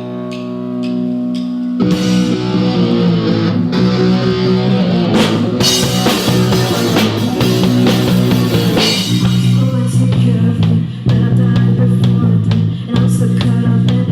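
Rock music from a band: guitar holding a chord, then drums and bass come in with the guitars about two seconds in, playing a steady rock groove.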